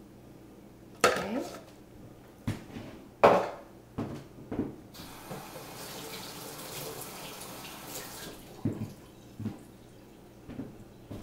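Kitchen tap running for about three seconds in the middle, with sharp clatters of utensils or dishes before it and a few lighter knocks after.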